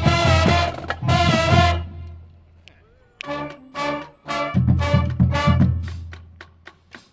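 High school band's brass section holding a loud chord that fades out about two seconds in. After a short pause it plays a run of short, punchy brass hits from about three seconds in.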